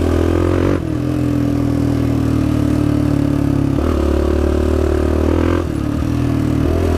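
Suzuki 400 single-cylinder four-stroke engine running under way on a trail ride. Its pitch drops about a second in, climbs again near four seconds, and dips briefly around six seconds, following throttle and gear changes.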